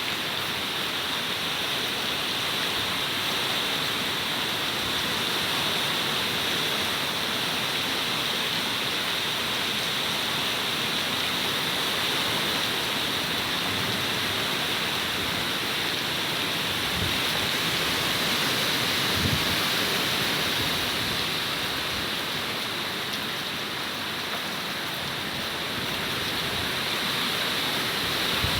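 Steady heavy rain hissing, with wind; a few low gusts of wind come through in the second half and again near the end.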